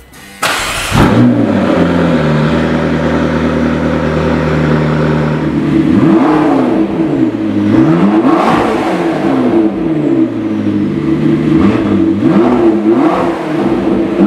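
McLaren MP4-12C's twin-turbo V8, with its sports exhaust, firing up about half a second in and settling to a steady idle. From about halfway it is revved up and down repeatedly in quick blips.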